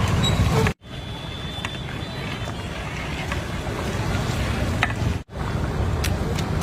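Steady low rumbling background noise with a few faint clicks, cut off abruptly for an instant twice.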